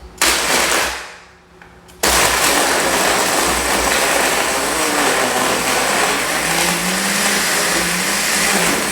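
Countertop blender crushing ice and sherbet ice cream into a frozen drink: a short pulse that dies away, then from about two seconds in it runs steadily, its motor pitch wobbling up and down later on as it churns the thick mix.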